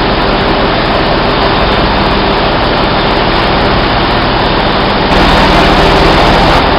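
Loud, steady drone of running heavy machinery, a low hum with steady tones under a dense hiss. It gets louder about five seconds in.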